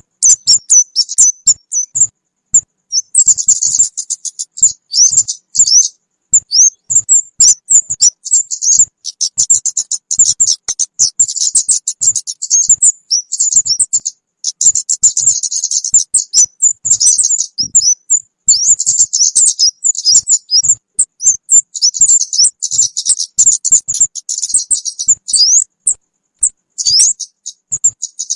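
Lure call of the kemade, a small bird, used to attract birds for trapping: rapid high chirps and buzzy trills in bursts of one to three seconds, with short gaps between them.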